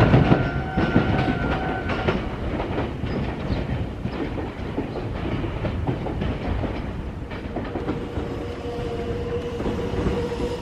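Meitetsu electric train running through the junction, its wheels clicking over the points and rail joints; it is loudest at the start and eases off after about two seconds. A steady high tone cuts off about two seconds in, and a lower steady tone comes in near the end.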